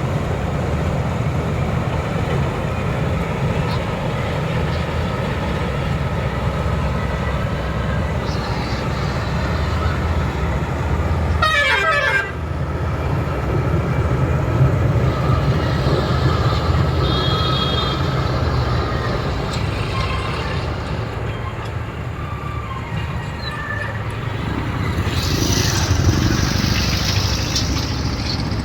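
Heavy farm machinery's diesel engine running steadily at a working speed. A short falling tone sounds about twelve seconds in, and a burst of hiss rises near the end.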